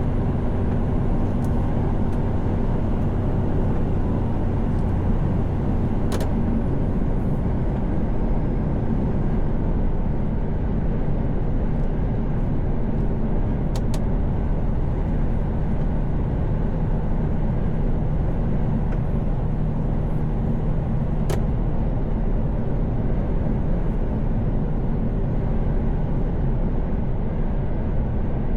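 Inside a Mercedes-Benz Actros truck cab at highway cruise: a steady engine drone with road and tyre noise, the engine note shifting slightly about six seconds in. Three faint clicks are heard along the way.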